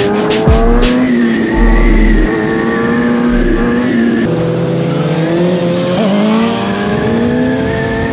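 Motorcycle engine running at riding speed, its revs rising and falling gently. Deep bass hits from a hip-hop track sound over it during the first few seconds.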